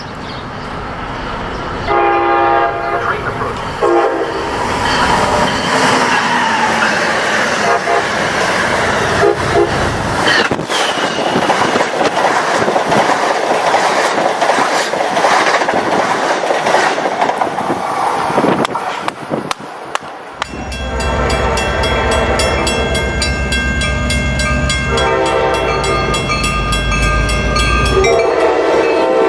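Locomotive horns sounding as trains pass: short horn blasts about two seconds in, then a stretch of rolling train noise. A long horn blast over heavy engine rumble starts at about twenty seconds and is followed by another near the end.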